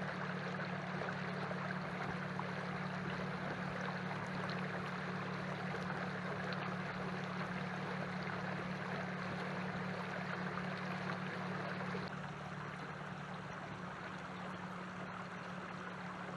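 A canoe under way on the water: a steady low motor hum with water rushing along the hull. The rushing eases slightly about three quarters of the way through.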